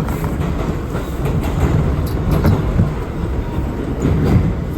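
R179 subway car running on the track, heard from inside the car: a steady low rumble with a few faint rail clicks.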